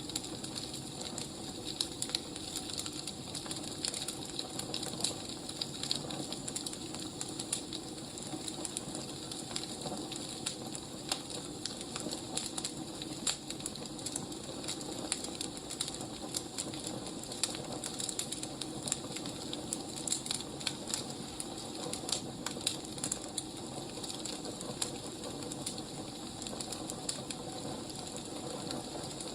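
Wood fire crackling: a steady hiss with frequent irregular small pops and snaps.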